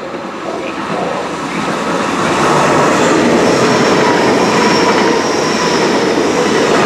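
Train running past the platform: a rush of wheels on rail that builds over the first couple of seconds and then holds loud, with a faint high whine over it.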